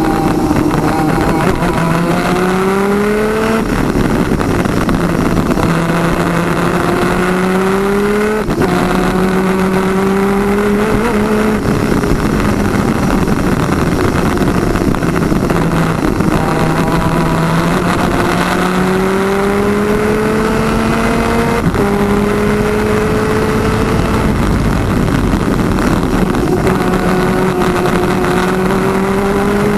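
PVP twin-250cc two-stroke superkart engines at race speed. The pitch climbs through the revs and drops sharply at each gear change, again and again. A dense, steady rushing noise runs underneath.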